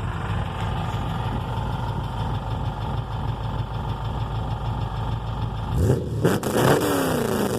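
Dodge Charger's carbureted engine idling with a deep, steady rumble through a new Magnaflow exhaust, then revved sharply about six seconds in, the pitch shooting up and falling back. It is loud enough to "blow your eardrums".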